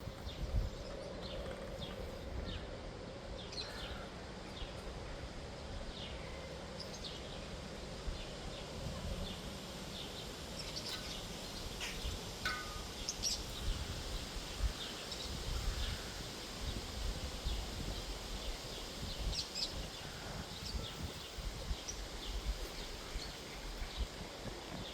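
Outdoor ambience with scattered short, high bird chirps over a steady low rumble.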